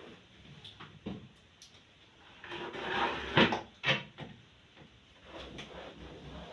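A fridge drawer being slid along with a scraping sound, then knocked into place twice, two sharp knocks about half a second apart. Lighter clicks and handling come before and after.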